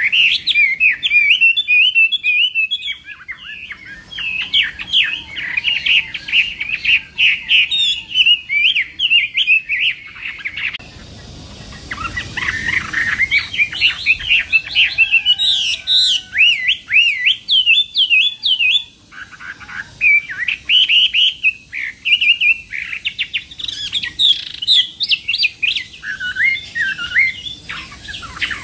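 Chinese hwamei singing a loud, continuous song of rapid, varied whistled phrases that rise and fall, with a short break about eleven seconds in.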